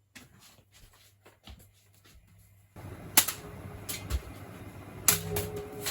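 Ceiling fan being switched on to high: a few light clicks over a low hum, then a steady rush of motor and air noise sets in suddenly about three seconds in, with several sharp knocks after it.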